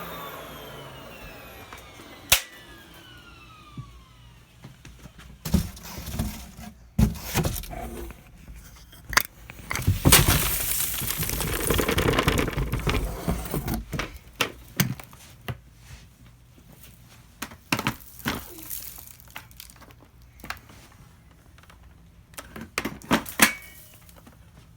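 Vacuum cleaner motor winding down after being switched off, its pitch falling. Then come scattered knocks, clicks and crinkling from things being handled, with a longer stretch of rustling and clatter about ten seconds in.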